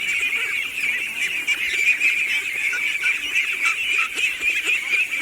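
A flock of poultry calling continuously, many overlapping high calls with no pause.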